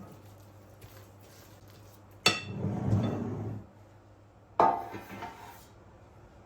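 Kitchenware being handled: two sharp clanks with a brief ring, about two seconds apart, the first followed by about a second of low rumbling scrape.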